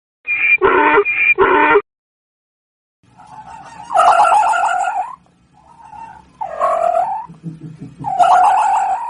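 Animal calls from two different clips: four short calls in quick succession, then after a pause three longer calls of about a second each.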